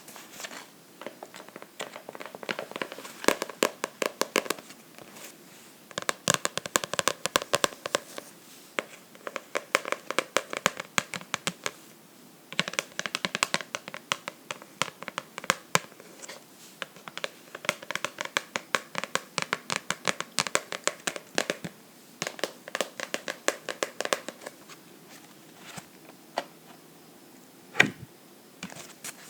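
Fingernails tapping and scratching on a book, in quick runs of ticks a few seconds long with short pauses between, and a couple of single louder taps near the end.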